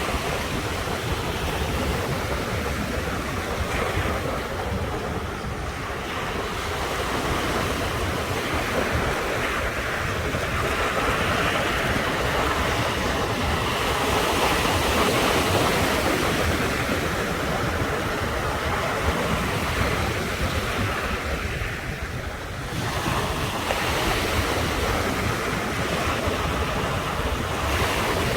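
Ocean surf breaking continuously, the wash swelling and easing, with a lull about a fifth of the way in and another brief dip about three quarters through before it builds again.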